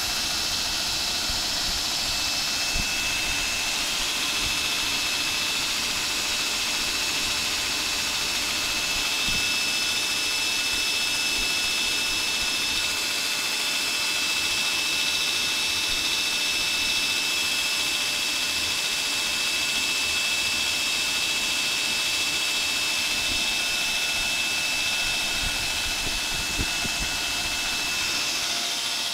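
Belt grinder with a 17-inch contact wheel, driven by a 2 HP motor, running at speed: a steady rushing noise with a high, even whine from the belt.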